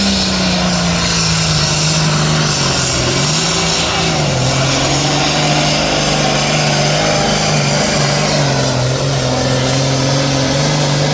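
Pulling tractor's engine running flat out under load during a sled pull, a loud steady drone whose pitch sinks slowly as the run goes on.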